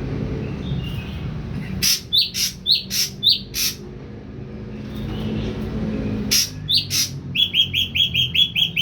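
Ashy drongo calling: a handful of sharp, clicky high notes about two seconds in and again around six seconds, then a quick run of about six short chirps a second near the end, over a steady low hum.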